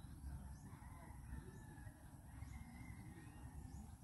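Faint bird calls in open country: a drawn-out call in the middle and a few short high chirps, over a low steady rumble.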